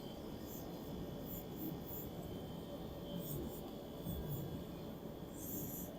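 Faint, intermittent light rubbing sounds over low background noise.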